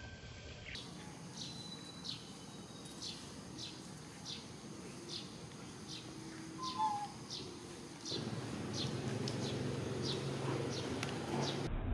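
A bird chirping over and over, short high falling notes about one and a half a second, with a brief lower squeak just before seven seconds. A steady low hum joins about eight seconds in.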